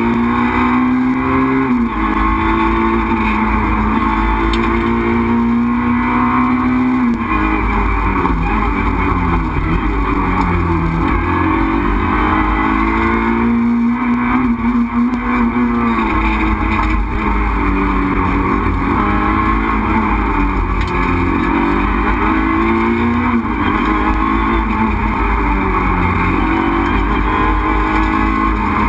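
Renault Clio 2 RS Group A rally car's four-cylinder engine heard from inside the cabin at stage pace. The revs climb and drop again and again through gear changes and slowing for bends.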